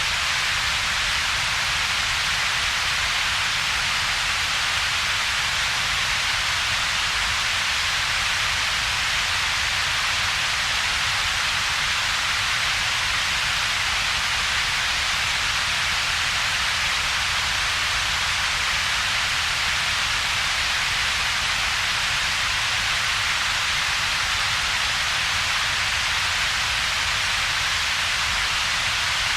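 Steady synthesized double-peaked noise: an even hiss strongest in the upper-middle range, plus a weaker low rumble, with a gap between them. It does not change at all.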